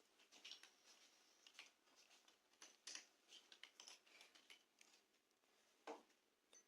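Near silence, with a few faint, scattered small clicks.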